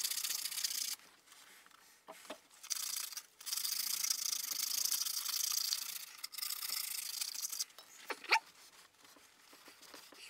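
Sandpaper rubbed by hand over the engine block's deck (head gasket) surface: a dry, hissy scraping in long strokes with short pauses between them. There is a brief squeak near the end.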